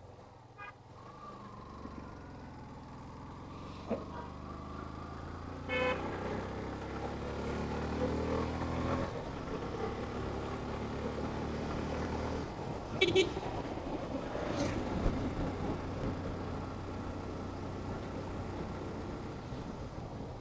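Yamaha FZ motorcycle engine heard from the rider's seat, rising in pitch as it accelerates, then dropping back. A vehicle horn honks twice about two-thirds of the way through.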